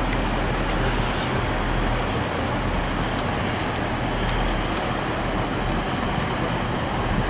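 Steady low rumble with a low engine hum: a three-car Union Pearson Express diesel multiple-unit train moving slowly out, mixed with city traffic noise.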